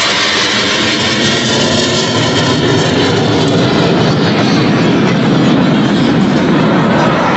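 Military jet aircraft flying past with a loud, continuous roar; the hissing top of the sound fades and a deeper rumble builds in the second half.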